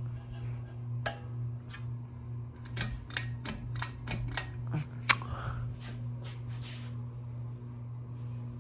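Steady low hum of running ceiling fans, with a run of irregular sharp clicks and taps over the first five seconds or so.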